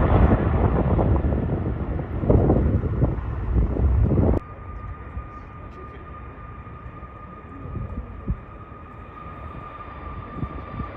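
Wind buffeting the microphone with loud gusty rumble. About four seconds in it cuts off abruptly to a quieter steady hum with a thin high whine, like a jet aircraft's engines running at a distance.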